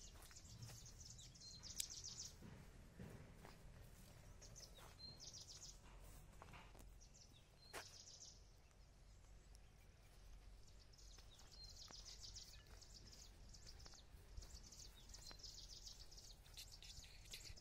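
Faint outdoor ambience: small birds giving repeated short high trills and scattered chirps over a low background rumble.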